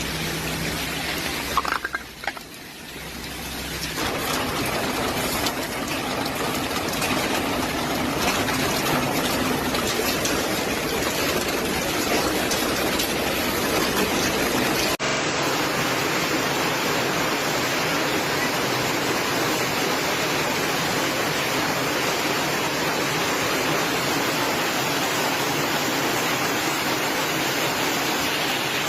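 Steady hiss of heavy storm rain, running on across clips with a short drop in level about two seconds in and a change of clip about halfway.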